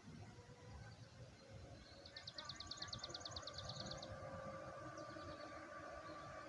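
A bird's rapid high trill of about twenty quick notes, lasting about two seconds and starting about two seconds in. Under it runs a faint steady hum and low outdoor noise.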